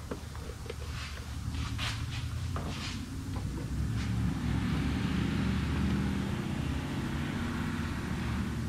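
Fresh motor oil being poured into the engine's oil filler. There are a few clicks of the cap and bottle being handled, then a steady pouring hiss from about four seconds in, over a steady low rumble.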